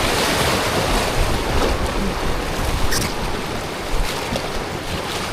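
River water rushing steadily past a tube on a fast jungle river, with wind buffeting the microphone in uneven low rumbles.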